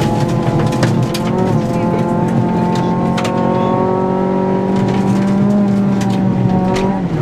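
Rally car engine heard from inside the cockpit, held at high revs at speed. The engine note falls away at the very end, and scattered sharp clicks sound over it.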